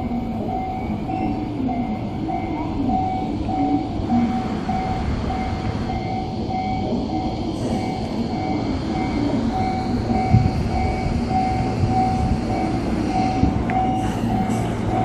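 Electric commuter train running on the line, a steady rumble with a thin tone repeating about twice a second throughout.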